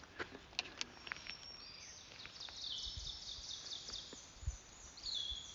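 A songbird singing a long run of high, stepped notes, with a few faint clicks just before it.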